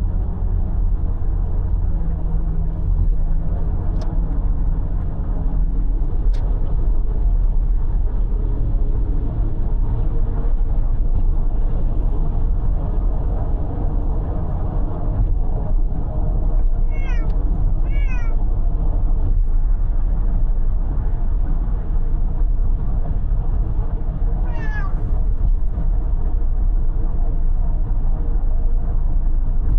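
Cat meowing inside a moving car: two short meows falling in pitch close together, and a third several seconds later, over the steady low rumble of road and engine noise.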